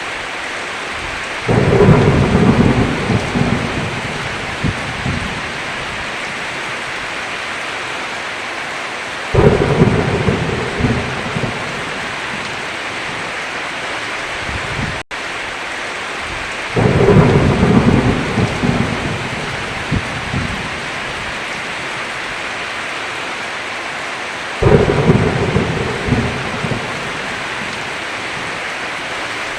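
Heavy, steady rain with thunder: four rolls of thunder, each breaking suddenly and rumbling away over a few seconds, recurring about every eight seconds.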